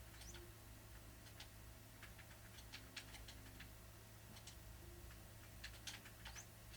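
Faint pencil or pen writing on paper: short, irregular scratches and ticks, a few strokes in a row with small gaps.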